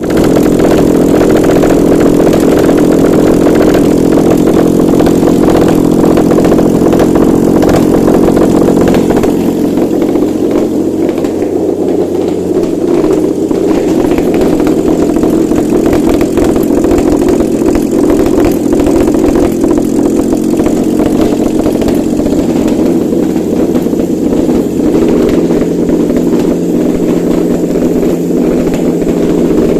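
Lexus 2GR-FSE 3.5-litre V6 engine running on a test stand, a little louder for the first nine seconds or so, then settling into a steady idle.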